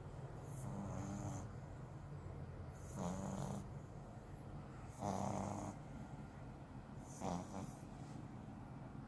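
French bulldog snoring, four snores about two seconds apart, each a low buzzing rattle with a breathy hiss.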